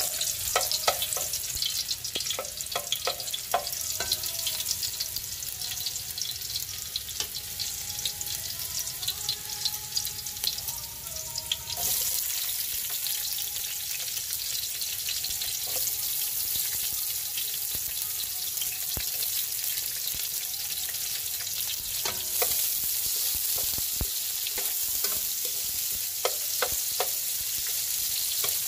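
Minced garlic sizzling in hot oil in an aluminium pan, with a plastic spatula stirring and scraping against the pan in sharp clicks. About twelve seconds in, sliced red onion goes into the oil and the sizzling turns louder and denser, with more stirring near the end.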